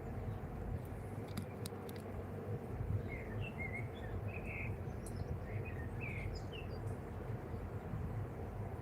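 Outdoor ambience: a steady low rumble, with a small bird chirping a run of short high calls in the middle and a few faint clicks.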